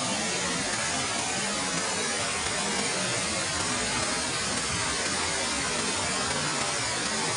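Waterfall water rushing and splashing in a steady roar of noise.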